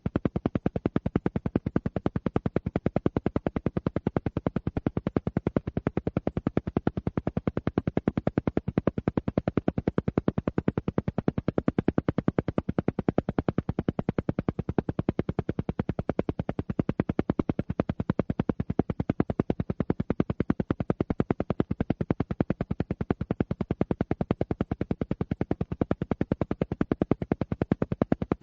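Alpha-wave isochronic tone: a low tone switched on and off in even, rapid pulses, about ten a second, steady and unchanging.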